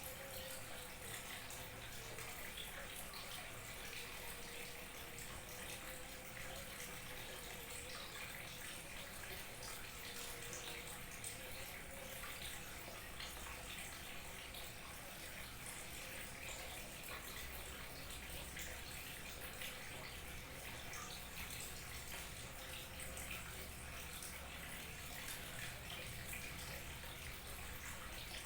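Small waterfall trickling and splashing steadily, an even rushing hiss with faint patter of droplets.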